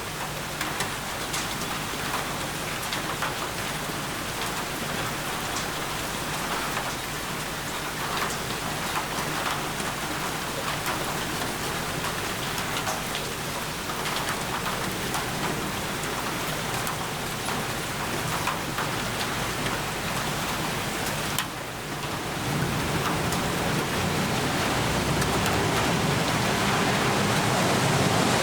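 Steady heavy rain falling on a surface, with many sharp individual drops. About three-quarters of the way through it briefly dips, then comes back louder and fuller with a low rumble underneath.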